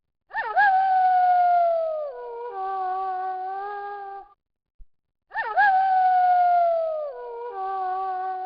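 A wolf howling, twice in the same pattern. Each howl opens with a quick upward swoop into a long, slowly falling note, then breaks into a steadier, lower held note that stops after about two seconds.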